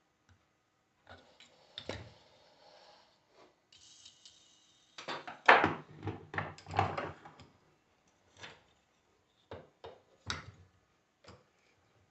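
Alternator parts being handled on a workbench: irregular metal knocks, scrapes and clatter, with a cluster of louder knocks about five to seven seconds in and a few single knocks after.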